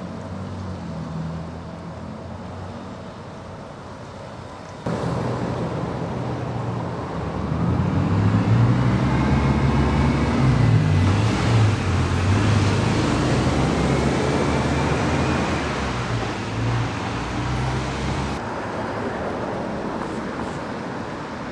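Motor vehicle engines and road traffic, jumping suddenly louder about five seconds in and staying loudest through the middle.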